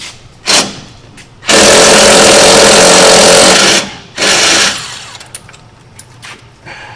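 Impact wrench hammering on a wheel-hub mounting bolt, loosening it: a short burst, a long run of about two seconds, then another short burst.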